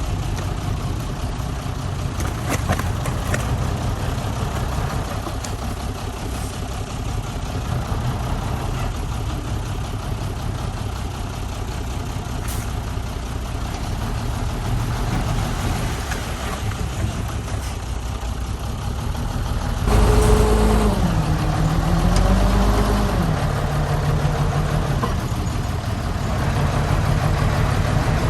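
Diesel engines of heavy earthmoving machinery running steadily. About twenty seconds in, one engine revs up louder, its pitch dipping and recovering as it takes load, then holds steady.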